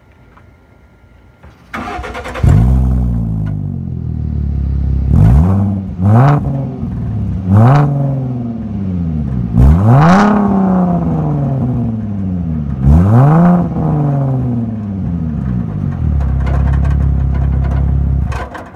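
A 2013 Ford Mustang's 3.7-litre V6, exhaust with the muffler deleted and heard from outside the car, starts about two seconds in with a flare. It is then revved about five times, each rev climbing quickly and falling back, and runs steadily before cutting off abruptly near the end.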